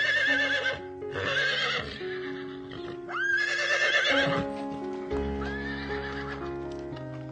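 Horse whinnying: three loud, quavering neighs in the first four and a half seconds and a fainter one about five and a half seconds in, over background music.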